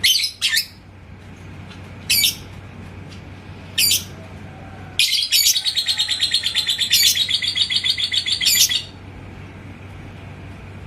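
Lovebird calling: a few short, sharp chirps, then, about five seconds in, a rapid chattering run of fast repeated high notes lasting nearly four seconds. This is the 'ngekek' chatter song.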